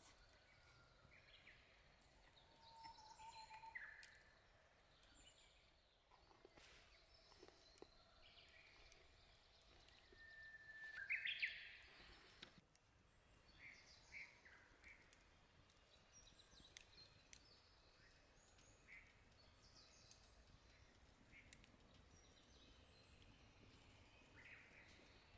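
Quiet outdoor ambience with faint, scattered birdsong: short chirps and calls here and there, one louder call about eleven seconds in.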